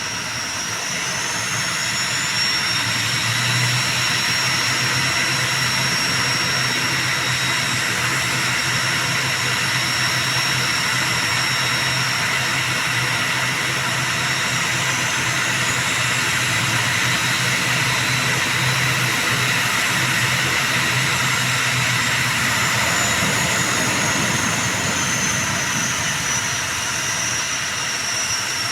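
ATR 72-600's Pratt & Whitney PW127 turboprop engines running, a high turbine whine over a steady low drone. The whine rises in pitch about two seconds in and again around fifteen seconds, then slides back down near the end.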